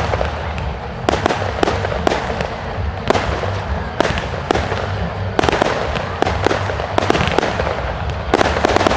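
Fireworks display: aerial shells bursting in quick succession, about two or three sharp bangs a second over a continuous crackle and low rumble.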